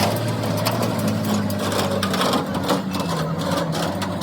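An engine running, with a rapid run of metallic clicks and clatter over it.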